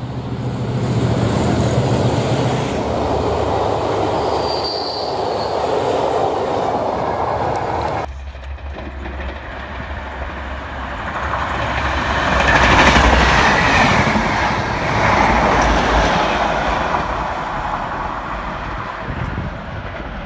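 A train passing through, its wheels and rails rumbling loudly. The sound changes abruptly about eight seconds in, then swells again with a light wheel squeal.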